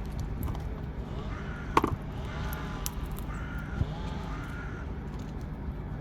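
A crow cawing several times in short calls, over a steady low rumble. A sharp click about two seconds in is the loudest single sound.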